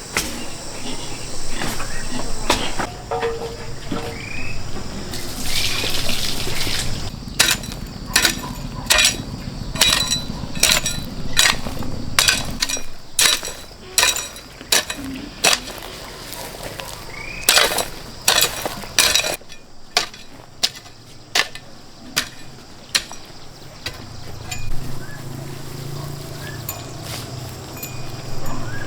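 A series of sharp knocks, about one or two a second, over a steady low hum.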